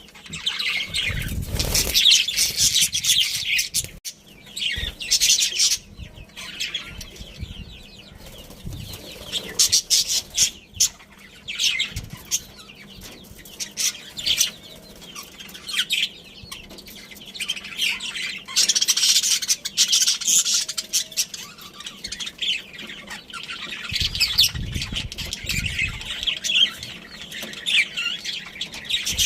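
Budgerigars chirping and chattering in quick, irregular bursts, with a few spells of wing flapping.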